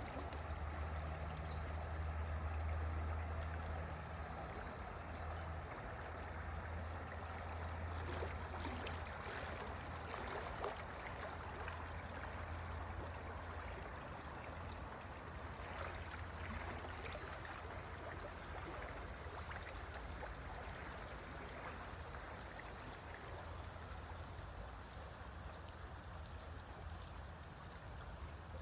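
A stream flowing and gurgling steadily, with a constant low rumble underneath.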